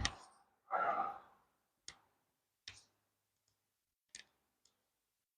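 A short breath-like exhale about a second in, followed by three light clicks of something handled, spaced about a second apart.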